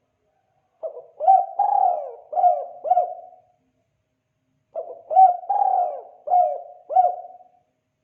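Spotted dove (tekukur) cooing: two phrases of about five low coo notes each, every phrase lasting about two and a half seconds, about four seconds apart.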